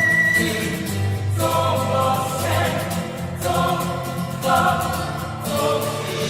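Music: a choir singing slow, held chords that change every second or so.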